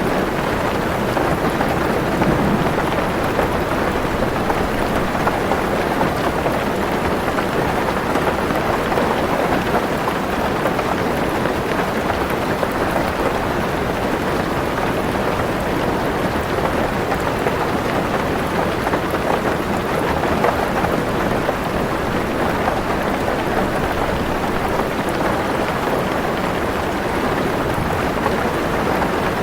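Heavy rain drumming steadily on a car roof and windows, heard from inside the car as an even, unbroken wash of patter.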